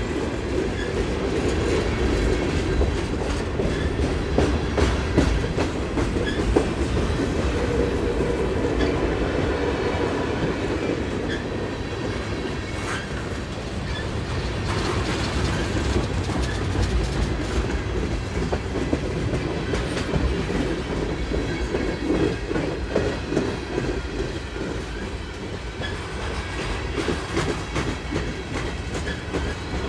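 Freight cars of a Union Pacific manifest train rolling past, with a steady rumble and a continual run of wheel clicks over the rail joints.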